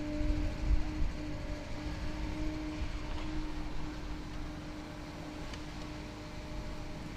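Machinery of a car-shredding plant running: a heavy low rumble with a steady hum, a little louder in the first second.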